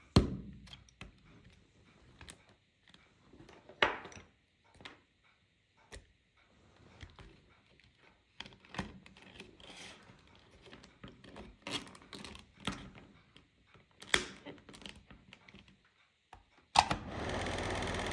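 Irregular clicks and knocks of small plastic and metal parts being handled, then a switch click near the end and the antique hair dryer's fan motor starts running with a steady rush of air.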